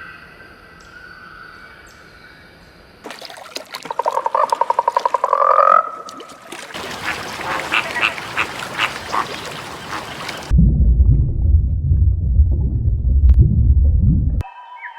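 Different animal calls following one another with abrupt cuts: a fast pulsed call rising in pitch about three seconds in, a rough noisy stretch, then a loud, deep, low call from about ten seconds in until near the end.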